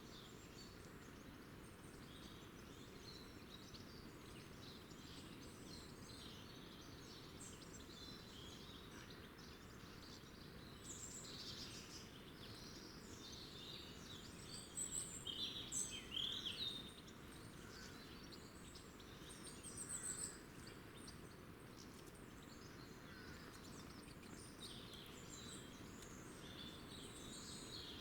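Small wild birds chirping and twittering, many short calls overlapping, over a low steady background hum. The calls grow louder in a cluster a little past halfway and again briefly a few seconds later.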